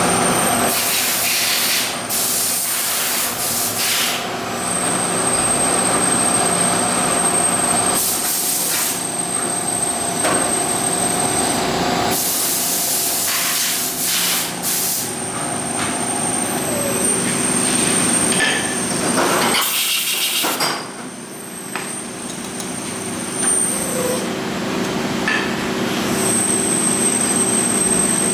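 Factory machinery running steadily with a high whine and a low hum, broken by several bursts of hissing lasting a second or two each.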